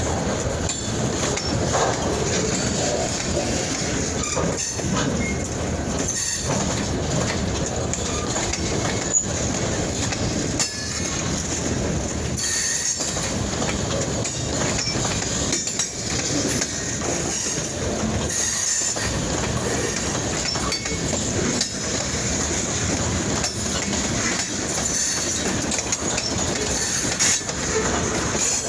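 Freight train rolling past, its steel wheels clattering steadily over the rails.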